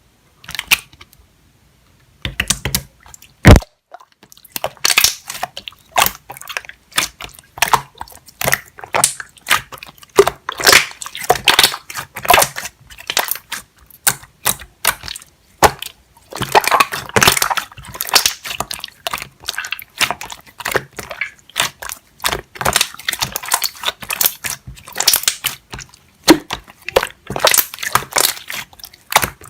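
Clear slime being handled, giving dense runs of sticky wet clicks and crackles, with one sharp snap about three and a half seconds in.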